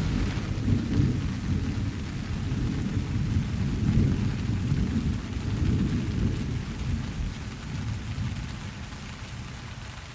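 A long roll of thunder rumbling over steady rain, fading away toward the end.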